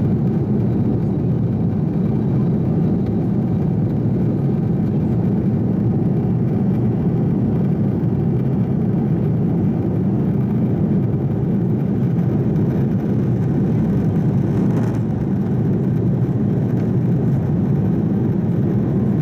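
Steady low roar inside the cabin of an Airbus A330 airliner climbing out after takeoff: jet engine and airflow noise.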